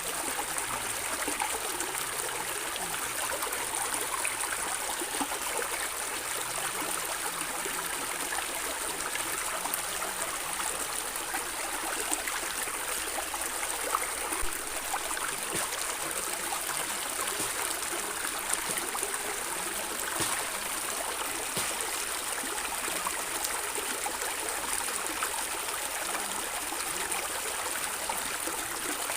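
A stream of water flowing and gurgling steadily, with a constant babble of small splashes and trickles.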